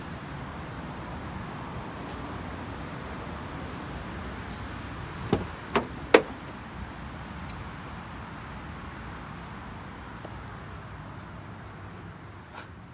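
Three sharp clicks or knocks in quick succession about halfway through, the last the loudest, over a steady background noise; a fainter click near the end.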